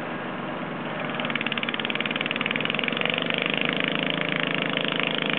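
Massey Ferguson 10 garden tractor's engine running, then getting louder about a second in, with a rapid, even pulsing as it revs up.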